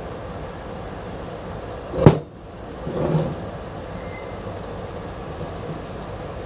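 A single sharp clunk about two seconds in, then a softer knock a second later, over a steady background noise: metal ceiling fan parts being handled and set down on the bench.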